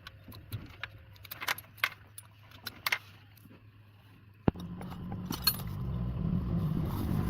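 Keys jangling with light clicks. About four and a half seconds in, an engine starts abruptly and keeps running, its low hum growing steadily louder.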